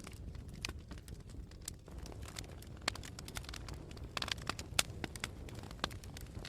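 Campfire crackling: irregular sharp pops and snaps from the burning wood over a steady low rumble, with the loudest pop a little under five seconds in.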